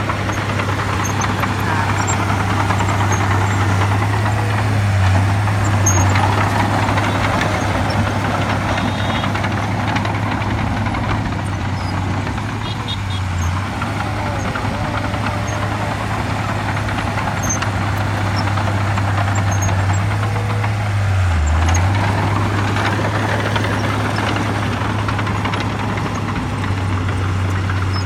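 Heavy diesel engine of earthmoving machinery running steadily. Its pitch dips briefly about three quarters of the way through.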